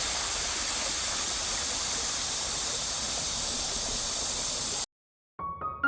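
Mountain stream water rushing steadily over rocks, cutting off suddenly near the end.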